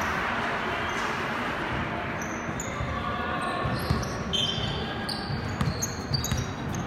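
Basketball being dribbled on a gym court, with short high sneaker squeaks from about four seconds in, over the murmur of the crowd in the hall.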